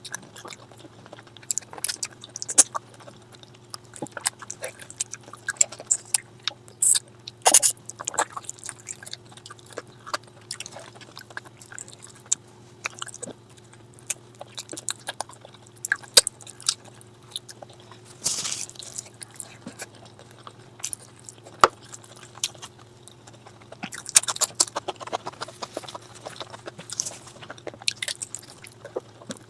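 Close-miked eating: a person chewing and smacking their way through a curry meal, with frequent irregular wet smacks and clicks, over a steady low hum.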